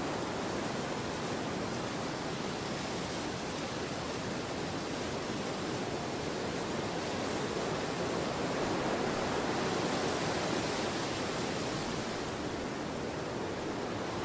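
Storm wind rushing steadily, with a gust swelling about eight seconds in and easing off again.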